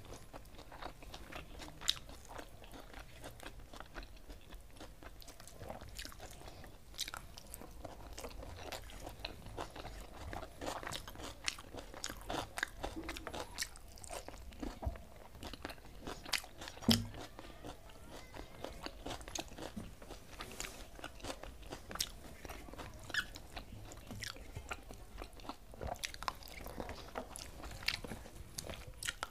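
Close-up eating sounds: a person chewing and biting mouthfuls of rice and egg omelette eaten by hand, with many small wet mouth clicks and crackles. A few sharper clicks stand out, the loudest about seventeen seconds in.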